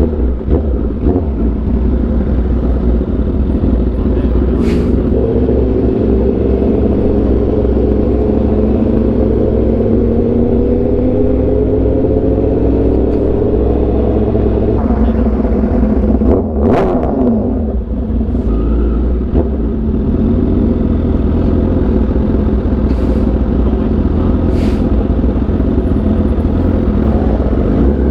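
Sportbike engine running under way, its pitch slowly rising as it pulls, over a heavy low rumble of wind on the helmet microphone. About 17 seconds in, another vehicle's engine note drops in pitch as it goes by.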